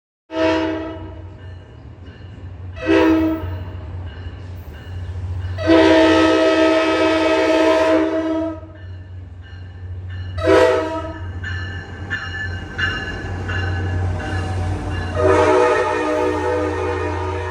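Passing train's locomotive horn, a multi-note chord, sounded five times: two short blasts, a long one, a short one, then a long one near the end. A steady low rumble runs underneath.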